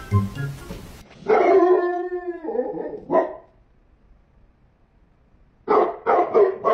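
A dog howls once for about a second and a half, gives one short yelp, then after a pause barks three times in quick succession near the end.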